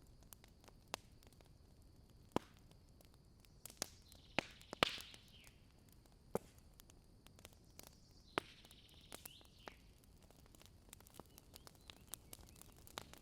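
Wood campfire crackling, with irregular sharp pops and snaps, the loudest about five seconds in, and two short high hisses from the burning wood, one around the loudest pop and one a few seconds later.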